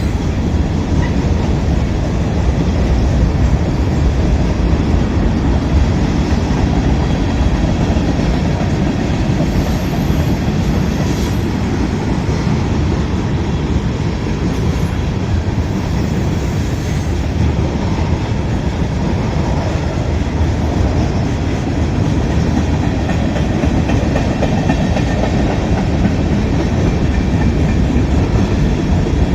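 Train cars rolling steadily past, wheels rumbling and clacking over the rails.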